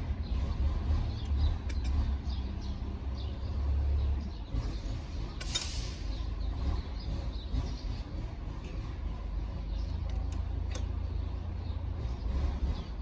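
A steady low rumble with scattered light clicks and a brief hiss about five and a half seconds in.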